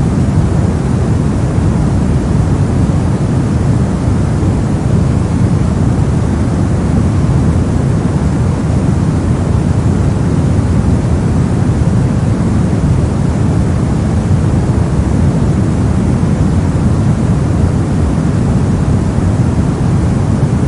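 Brown noise: a steady, deep rumbling hiss, strongest in the lows and falling away in the highs, unchanging throughout.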